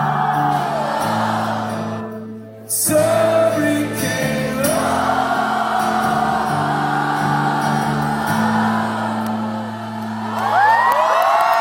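Live rock music with held sung notes over a sustained low synth drone; the music drops out briefly about two and a half seconds in, then returns. Near the end, many voices whoop as the crowd starts cheering.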